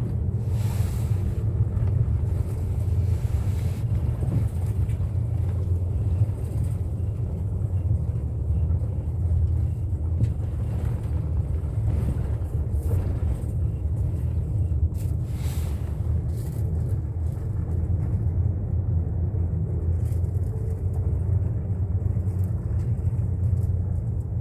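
Steady low rumble of a bus's engine and tyres while it drives along, with a couple of brief swells of hiss.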